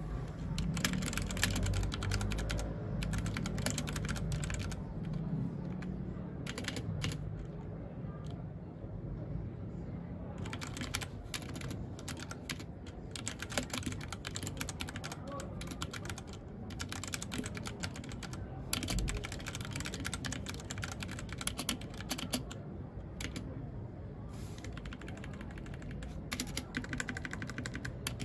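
Mechanical keyboard typing: runs of rapid key clicks, broken by a few short pauses.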